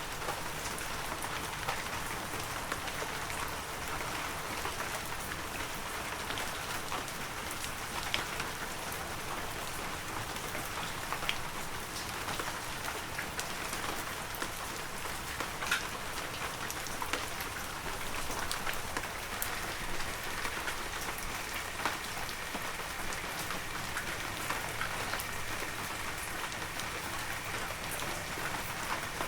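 Heavy rain falling steadily, with many separate drop hits close by standing out as sharp ticks.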